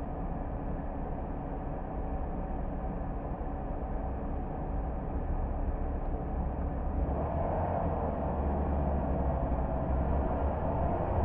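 A car driving along a road: steady engine and tyre noise with a low rumble, growing louder about two-thirds of the way through.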